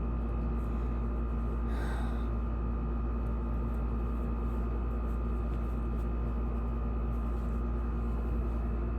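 Steady low background hum with a few faint steady tones, and a soft breath about two seconds in.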